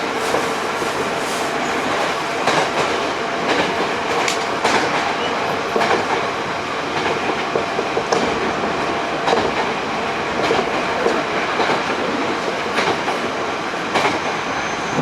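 Interior running noise of a Hankyu 8000 series electric train at speed: a steady rumble with repeated clicks of the wheels over rail joints. A thin high whine comes in near the end.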